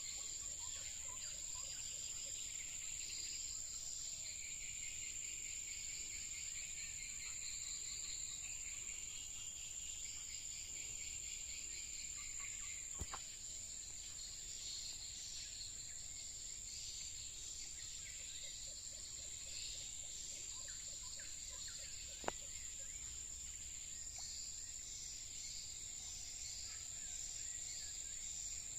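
Outdoor chorus dominated by a steady high-pitched insect drone, with a busy background of chirping calls from whistling ducks and other birds. Two sharp clicks are heard, about 13 and 22 seconds in.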